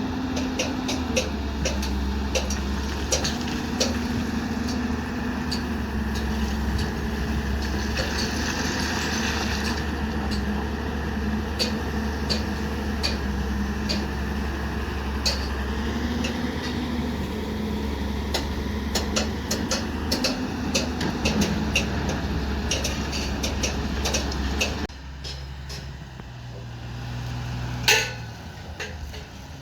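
A machine engine runs steadily under many light metallic clinks and knocks. About 25 seconds in, the engine sound drops away to a quieter hum, and a single loud clank follows near the end.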